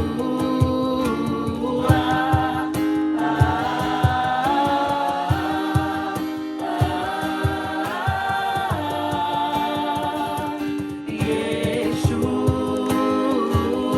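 Group of voices singing a worship song over instrumental accompaniment with a steady low beat.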